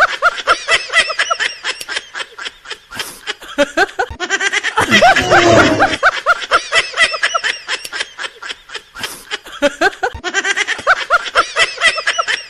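A laughter sound effect in rapid snickering pulses. The same few-second clip loops about every five seconds.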